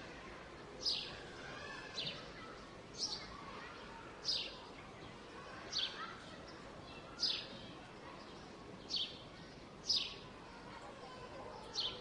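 A songbird calling with a short, sharp, downward chirp, repeated about nine times at roughly second-and-a-half intervals, over a faint steady hum of city background noise.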